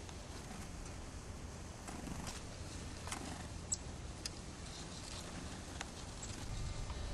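Birds at a feeder: scattered light taps with a couple of short high chirps about midway, over a steady low outdoor rumble.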